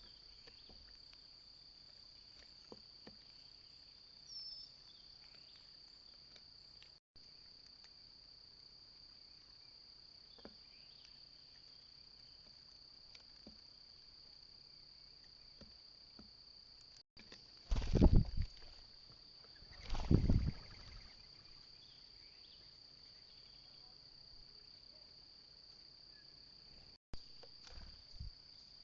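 A steady, high-pitched insect trill runs throughout. About two-thirds of the way in come two loud thumps, two seconds apart. The sound cuts out completely for a moment three times.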